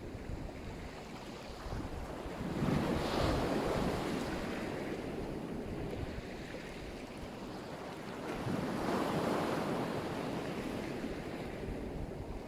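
Black Sea surf: waves washing onto the shore, two swelling in about six seconds apart, with wind buffeting the microphone.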